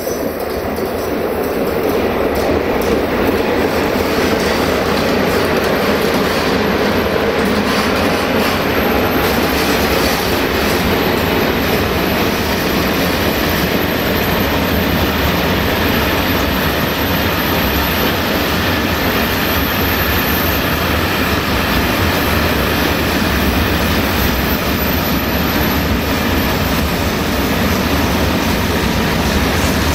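Freight train of open and hopper wagons behind a 060-EA electric locomotive rolling past close by: a steady rumble and rattle of the wagons' wheels on the track, growing louder over the first couple of seconds and then holding.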